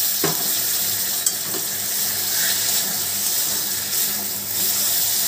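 Spiced masala and boiled potato chunks sizzling in hot oil in a steel wok, with a little hot water just added, while a metal spatula stirs. A sharp knock comes near the start.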